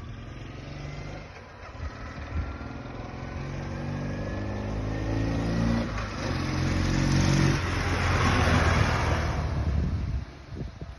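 1993 Ural motorcycle's flat-twin engine accelerating, its pitch climbing, with a gear change about six seconds in before it climbs again. It grows louder, then falls away sharply near the end.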